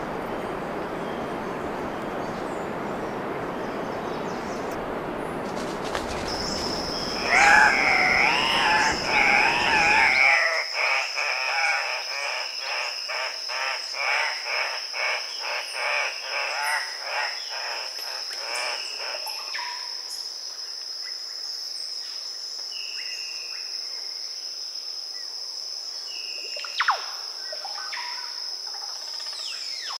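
Andean cock-of-the-rock calling at its display perch: a burst of loud, wavering squawks about seven seconds in, then a fast run of repeated notes that fades out over the next several seconds. A steady high insect whine carries on underneath, a rushing hiss fills the first ten seconds and then cuts off, and a single sharp click comes near the end.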